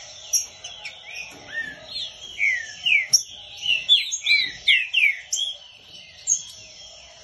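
Green-winged saltator (trinca-ferro) singing loud phrases of slurred, falling whistled notes, thickest in the middle of the stretch, over a background of fainter high chirps from other birds.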